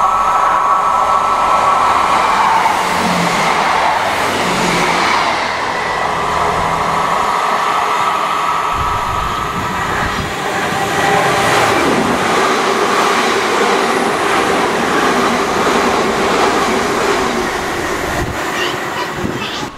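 Passenger train running on the rails, with a steady whine as it approaches and then running noise as it moves away.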